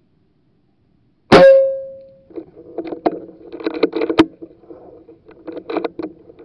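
A single sudden loud crack about a second in, with a ringing tone trailing off over about a second, followed by irregular knocking and clattering over a steady low hum.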